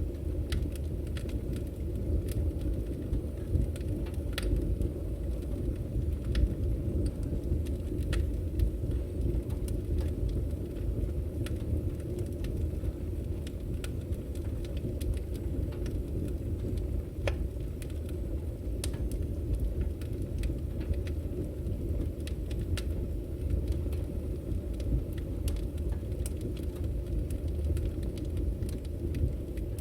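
Wood fire burning: a steady low rumble of flames with scattered crackles of the firewood and a few sharper pops.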